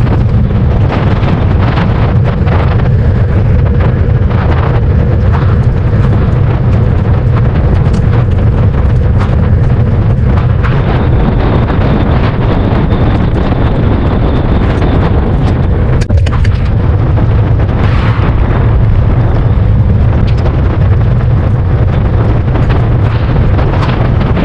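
Heavy wind buffeting an action camera's microphone on a moving bicycle: a loud, steady, low rumble.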